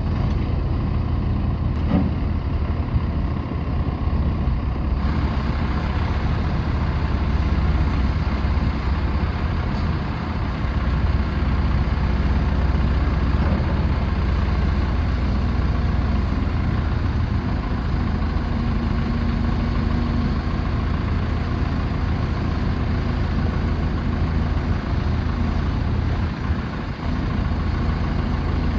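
CAT 416C loader backhoe's diesel engine running steadily at idle, a continuous low drone. There is a single sharp click about two seconds in.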